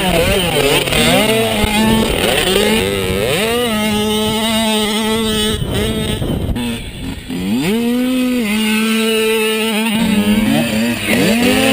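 Mini motorcycle engine revving, its pitch climbing and dropping several times and holding steady at high revs in between, with a brief drop in the middle.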